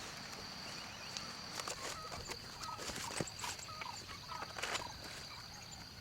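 Outdoor rural ambience: a steady high-pitched whine runs under a series of short animal calls and scattered clicks or knocks.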